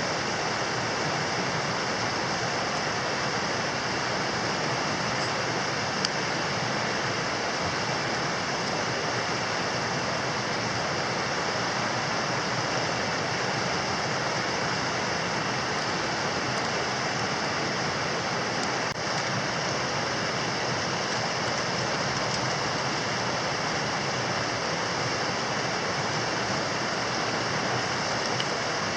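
Steady rushing of flowing water from a stream, with a thin, steady high tone running under it and a single faint click about six seconds in.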